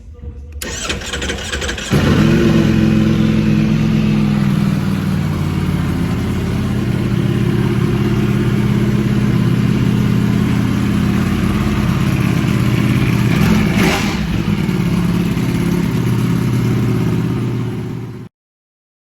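Ducati Panigale V4 motorcycle's 90-degree V4 engine on its stock exhaust being cold-started. The starter cranks for about a second before the engine catches about two seconds in, then it settles into a steady idle. The sound cuts off suddenly near the end.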